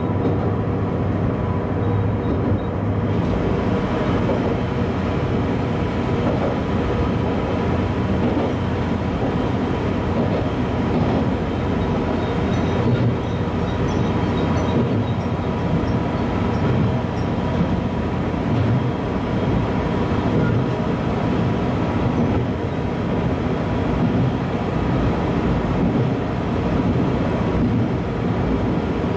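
Diesel railcar running steadily along the line, its engine and wheels on the rails, heard from the front of the train. About three seconds in the noise fills out and turns harsher as the railcar enters a tunnel.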